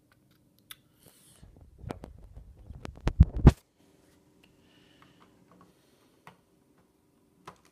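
Plastic LEGO parts rattling and clicking as the model is handled, building to a cluster of sharp clicks about three seconds in, then a few faint ticks.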